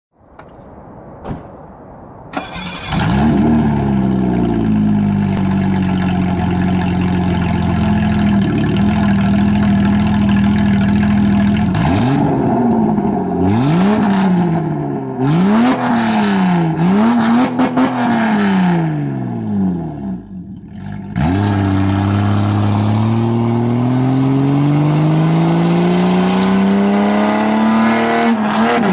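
A 1986 BMW 325e's 2.7-litre M20 inline-six, with no catalytic converter or mufflers, starts about three seconds in and settles to a steady idle. It is then blipped through several quick revs, each rising and falling. After a brief drop it pulls away, the pitch climbing steadily through the last several seconds.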